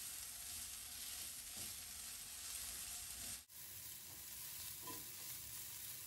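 Faint sizzle of sliced okra, garlic and green onion sautéing in oil in an enamelled cast-iron pan, stirred with a spatula. The sizzle breaks off for a split second about halfway through.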